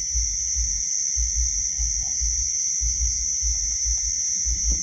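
Steady high-pitched chorus of crickets, with irregular low rumbling on the microphone underneath.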